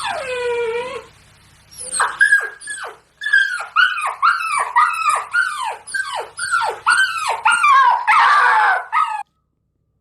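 Puppy crying and whining: one long falling whine, then a rapid string of short, high whimpers, each dropping in pitch, about two or three a second, ending in a rougher cry that cuts off suddenly about a second before the end.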